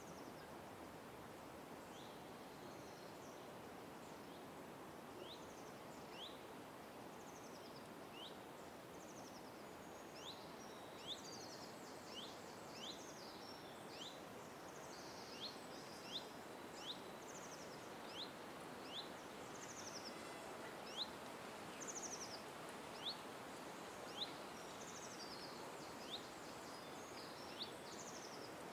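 Small birds chirping: short, high, sliding notes repeated about once a second, with other twittering above them, growing busier partway through, over a steady background hiss.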